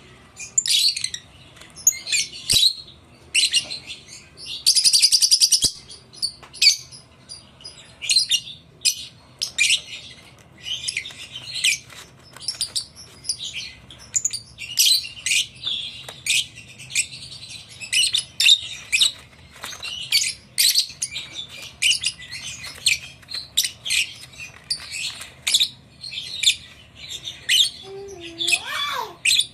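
Blue Fischer's lovebirds chirping continuously in quick, short, high-pitched calls, with one louder, harsh call lasting about a second about five seconds in.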